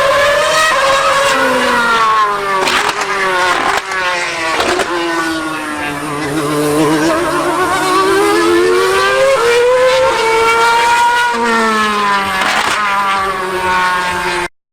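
High-revving racing engine at speed on a track, its pitch rising and falling with throttle and gear changes, dipping low through the middle before climbing again. It cuts off abruptly near the end.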